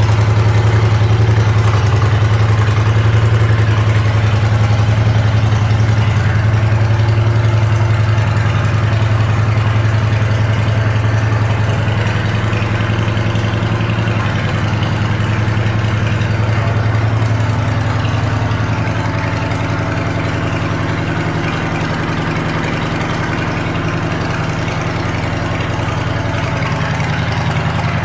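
Honda Fury 1300's V-twin engine idling steadily, getting slightly quieter over the middle.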